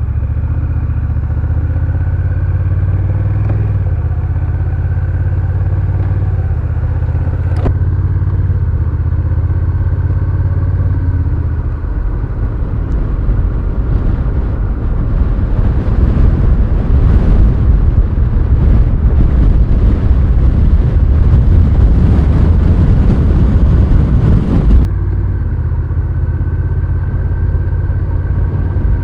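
Honda Rebel 1100's parallel-twin engine running steadily under a rider. About twelve seconds in, a loud rushing noise builds over it for roughly thirteen seconds and cuts off suddenly, leaving the steady engine again; there is a sharp click a few seconds before the rush.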